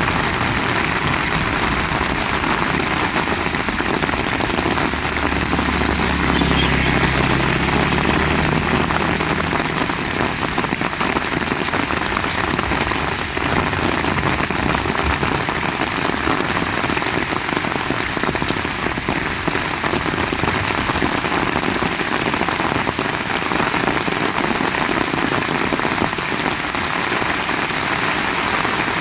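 Heavy rain pouring steadily. A low humming drone rises and fades between about four and ten seconds in.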